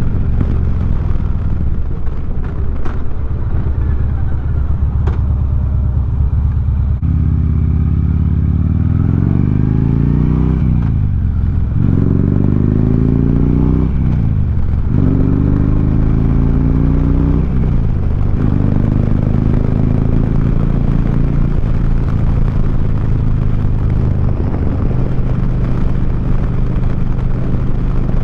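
2009 Harley-Davidson Street Glide's V-twin engine through 4.5-inch Sharkroad mufflers, heard from the moving bike. It cruises steadily, then about seven seconds in pulls hard up through the gears, the revs climbing and dropping sharply at three shifts, before settling back into a steady cruise.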